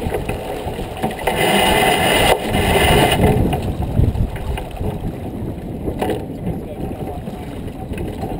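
Wind and water rushing past a J24 sailboat under way, with a louder rushing surge about a second in that lasts about two seconds.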